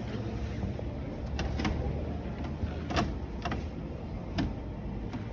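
A few short clicks and knocks, the sharpest about three seconds in, over a steady low background hum.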